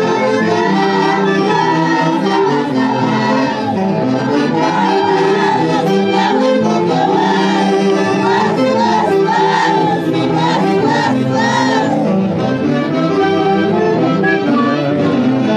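An Andean festival orchestra with saxophones and violins playing, the melody held in wavering notes with vibrato.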